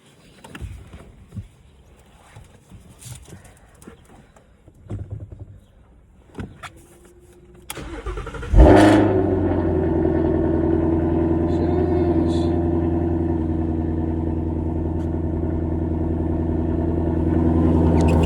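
Stock Shelby GT350's V8 cold start. A few light clicks and knocks come first, then the starter cranks briefly about eight seconds in. The engine catches with a loud flare and settles into a steady idle.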